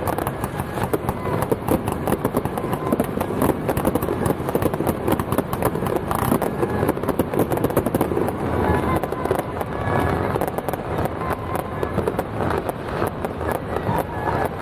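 Firecrackers and fireworks going off in a dense, continuous crackle of many sharp pops a second.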